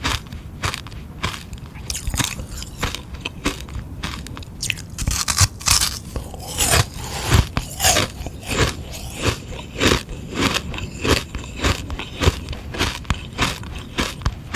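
Close-up biting and chewing of a frozen sugar-water ice lolly: a run of sharp crunches and cracks as the hard ice breaks between the teeth, coming thickest around the middle.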